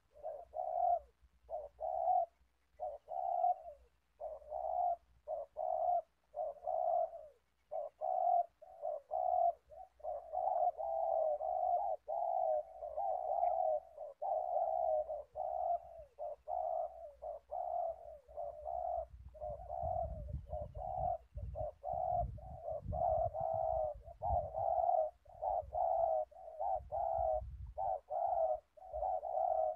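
Spotted doves cooing over and over, about one or two short coos a second. A low rumble comes in through the middle stretch.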